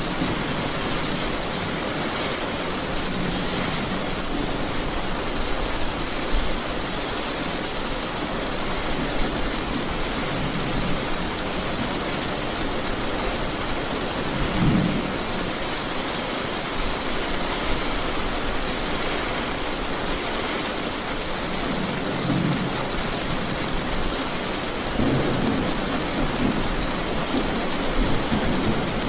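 Steady, heavy rainfall with low rumbles of thunder, one about halfway through and more near the end.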